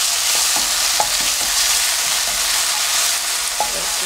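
Chopped kimchi sizzling in oil in a frying pan as it is stir-fried. A wooden spoon scrapes through it, with a few light knocks against the pan.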